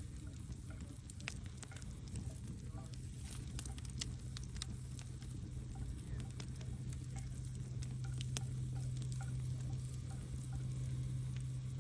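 Wood logs burning in a fireplace, crackling with scattered sharp pops over a low, steady rumble and hum.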